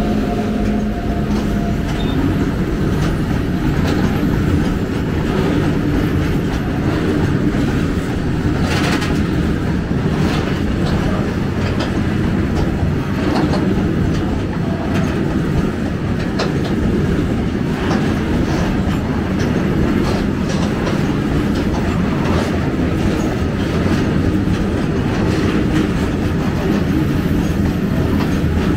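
Freight train wagons rolling slowly past, wheels clattering steadily over the rail joints with scattered sharp clicks. A steady hum fades out in the first couple of seconds.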